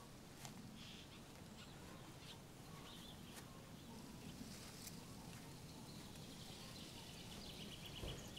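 Quiet countryside ambience with faint, scattered bird chirps and a short rapid bird trill near the end.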